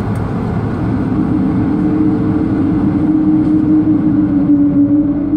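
Airliner cabin noise from the Airbus A220-300's Pratt & Whitney PW1500G geared turbofan engines: a steady rumble with a humming tone that sets in about a second in and creeps up in pitch near the end, as the engines spool.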